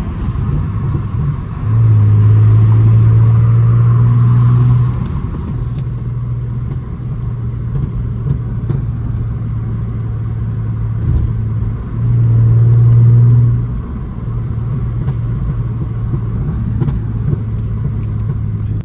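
Straight-piped 3.5-litre V6 of a Mercedes C350 (W204) cruising, heard from inside the cabin: a steady low exhaust drone that twice swells louder for a few seconds without changing pitch.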